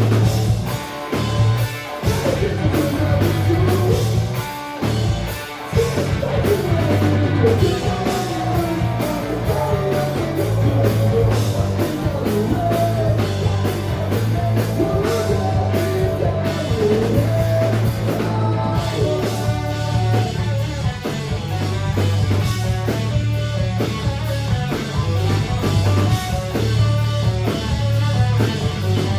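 Live rock band playing loud: drum kit, electric guitar and bass, with two short breaks in the first few seconds.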